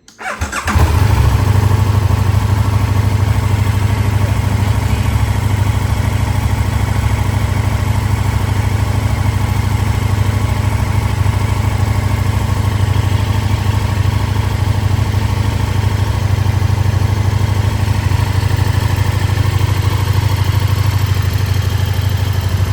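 KTM 1290 Super Duke R's V-twin engine starting up about half a second in, then idling steadily.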